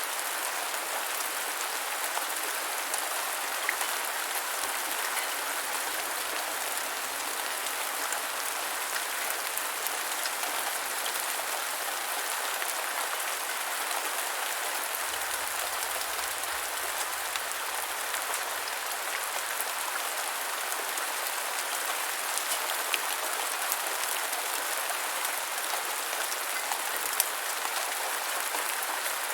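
Steady rain falling on the ground: a dense, even patter, with a few louder single drops standing out now and then.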